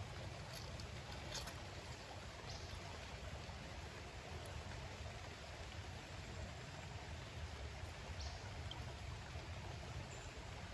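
Faint, steady rush of creek water, with a low rumble underneath and a few light clicks.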